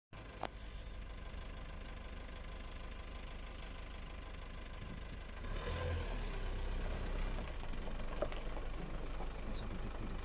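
Car engine idling: a steady low rumble that gets a little louder about halfway through.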